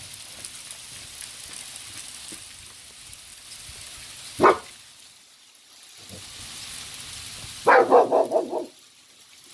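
Small BB-size hail falling with a steady hiss. A dog gives a single bark about four and a half seconds in, then a quick run of about half a dozen barks near the end.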